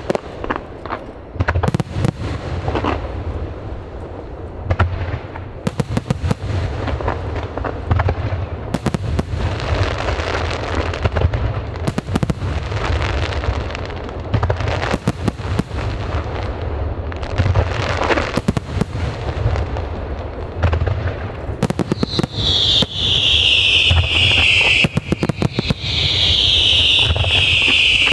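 Aerial fireworks display: a dense run of shell bursts with deep booms, echoing rumble and crackling. Near the end, loud high whistles fall in pitch over the bangs.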